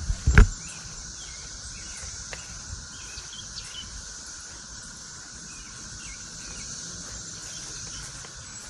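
A chorus of cicadas droning steadily, a continuous high buzz that sounds like a bunch of machinery. A single loud thump comes about half a second in.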